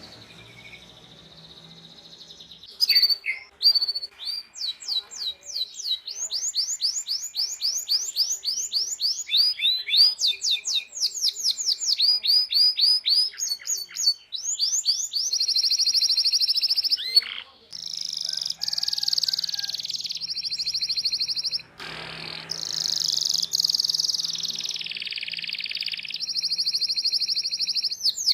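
Domestic canary singing a long song that starts about three seconds in. It begins with fast runs of repeated sweeping chirps ("cuit cuit") and moves into long, even, rapid trilling rolls, broken by two brief pauses.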